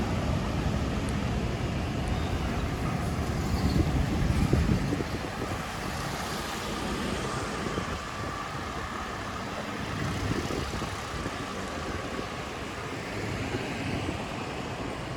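City road traffic noise: vehicles running on the street. A louder low rumble fills the first five seconds, then the noise settles to a steadier, quieter level.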